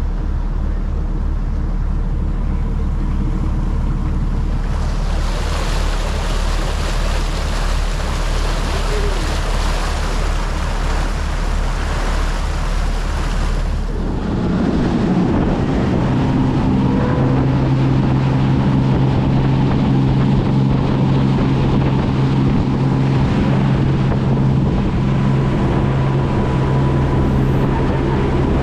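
Motorboat engine running under way, a steady low throb with water and wind rushing past. About halfway through the engine hum gets louder and higher, with wind buffeting the microphone.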